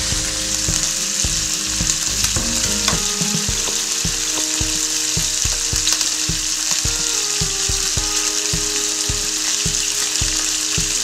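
Pieces of Asian swamp eel frying in hot oil in a pan: a steady sizzle with frequent sharp pops. The oil spits hard because the raw eel still holds water.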